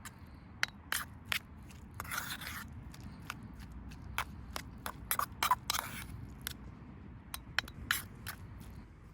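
Hand-handled cooking gear and food prep: an uneven run of sharp clicks and taps, with two short scraping stretches, one about two seconds in and one a little before six seconds.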